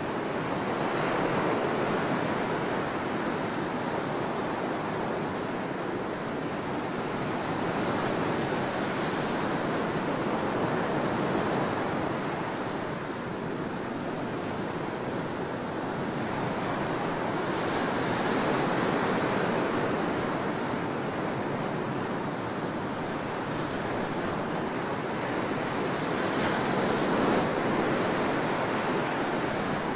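Ocean surf on a tropical beach: a continuous wash of waves breaking and running up the sand, swelling and easing every few seconds, with louder surges about a second in, around the middle and near the end.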